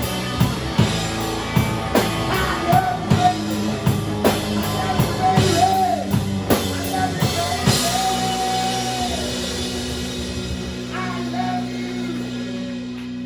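Live rock band with electric guitar, bass, drum kit and male vocals playing the final bars of a slow song: steady drum hits under sung lines, then, about eight seconds in, the drums stop on a final held chord and a long sung note that rings out and slowly fades.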